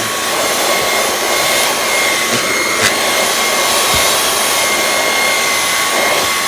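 Dyson V11 cordless stick vacuum running steadily, a constant rush of air with a high steady whine over it. There is one brief knock a little under three seconds in.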